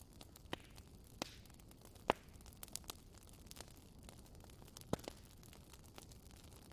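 Wood fire crackling: scattered sharp pops and snaps over a soft, steady hiss, with the loudest pops about two and five seconds in.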